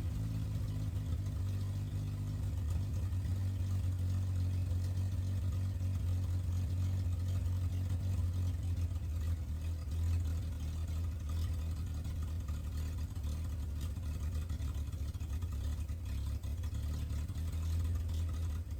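1968 Chevy C20's straight-six engine running steadily on its freshly rebuilt Rochester Monojet carburetor, at a rough starting tune with the idle still being set.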